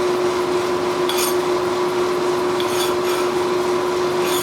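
A file skating over a freshly quenched knife blade in a few short scraping strokes, sounding hard: the sign that the steel has hardened in the quench. A steady mechanical hum runs underneath.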